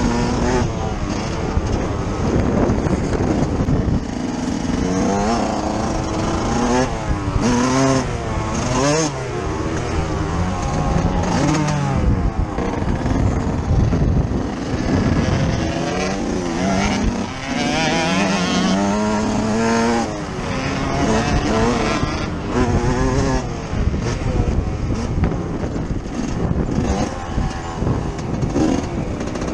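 Yamaha YZ125's single-cylinder two-stroke engine heard from on board while it is ridden on a motocross track, its pitch rising and falling over and over as the throttle is opened and closed.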